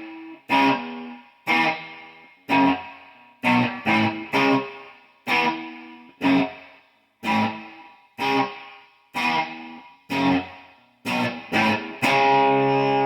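Electric guitar played through a pair of Fender Twin amplifiers: chords struck about once a second, each left to ring and fade, with the last one near the end held ringing.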